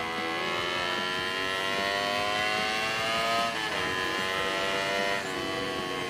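Honda CBR250RR with a custom aftermarket exhaust accelerating: the engine note climbs steadily, drops sharply about halfway through as it shifts up a gear, climbs again, and drops once more near the end at a second upshift.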